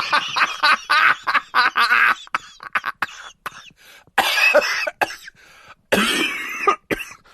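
Laughter sound effect: a voice laughing in quick bursts that thin out about two seconds in, then two longer drawn-out laughs.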